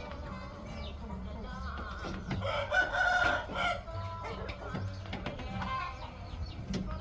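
Rooster crowing once, a long call starting about two and a half seconds in, among chickens clucking.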